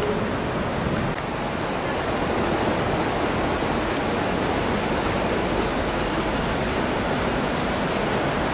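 Steady rushing of flowing water in a city canal: an even, unbroken hiss.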